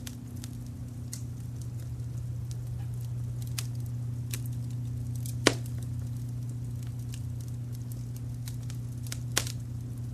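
Wood fire crackling with scattered small snaps and two louder pops, about five and a half seconds and nine seconds in, over a steady low rumble of brown noise.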